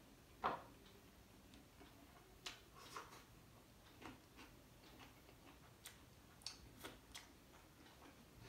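Close-up chewing of aloo pyaz kulcha: a scatter of soft, irregular mouth clicks, with one louder click about half a second in.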